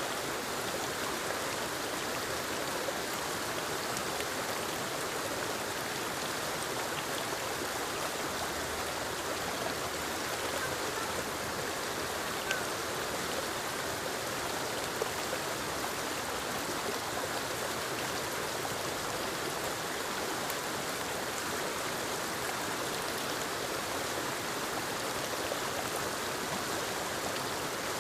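Waterfall tumbling over rocks into a stream: a steady, even rush of water, with a few faint drips and splashes.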